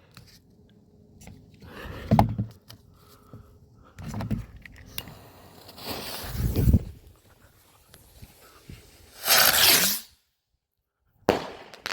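A few faint low thumps, then a small 'flying bug' spinner/flyer firework hissing loudly for under a second about nine seconds in. After a second of dead silence comes a second short hiss near the end.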